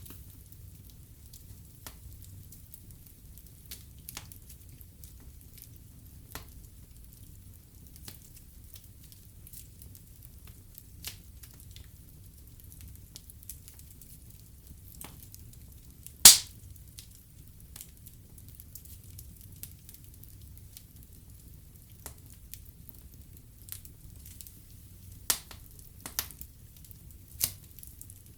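Wood fire burning in a fireplace: a low steady rumble with scattered crackles, one loud pop about halfway through and several sharp pops near the end.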